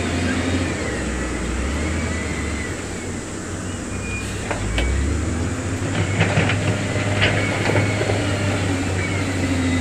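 Heavy diesel earth-moving machinery running steadily, with a repeated wavering metallic squeal. The engine works harder about halfway through, and a run of sharp metallic clanks follows.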